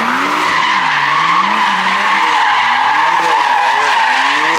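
Car doing a burnout or drift: the tyres squeal steadily throughout while the engine is revved up and down.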